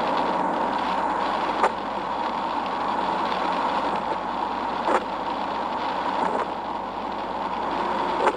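Steady road and engine noise of a moving vehicle, with a few brief sharp clicks or knocks over it.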